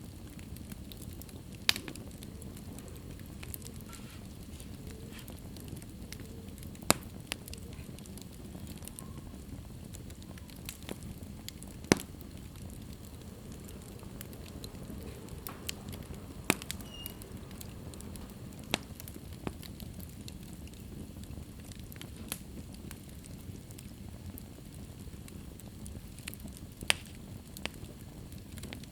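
Wood fire burning in a fireplace: a steady low rush of flames with irregular crackles and a handful of sharp, loud pops from the burning logs.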